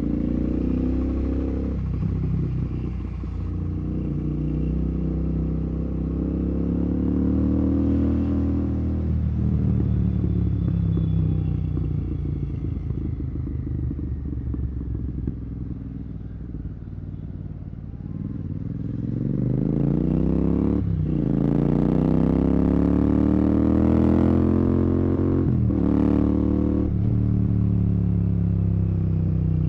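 Royal Enfield Continental GT 650's parallel-twin engine through Red Rooster aftermarket exhausts with the dB killers removed, on the move. The engine note holds and then sinks slowly as the bike eases off. About two-thirds in it rises steeply under hard acceleration, broken by two quick upshifts that briefly drop the pitch.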